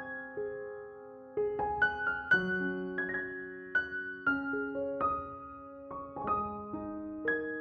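Background piano music: a slow run of single notes and chords, each ringing out and fading.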